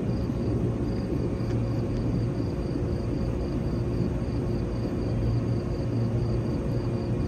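Steady electrical hum of a stationary 415 series electric train's auxiliary equipment, with fixed low tones. Over it runs a faint high-pitched pulsing tone, about four pulses a second.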